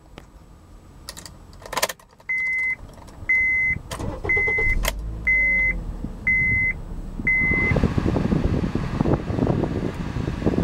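A 2008 Honda Accord EX-L's 2.4-litre four-cylinder engine starts about five seconds in and settles to idle, after a few clicks from the ignition switch. The dashboard seat-belt reminder chime beeps six times, about once a second. Near the end the climate-control fan starts blowing steadily.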